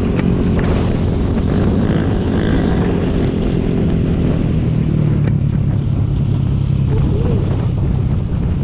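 Motorcycle engine running under way, with wind rushing over the rider's microphone; the engine note changes about five seconds in.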